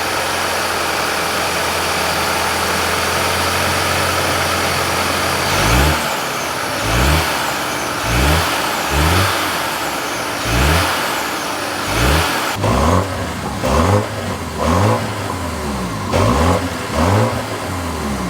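2025 BMW X1 M35i's turbocharged inline-four idling steadily, then revved in about a dozen short throttle blips, each rising and falling quickly, starting about five seconds in.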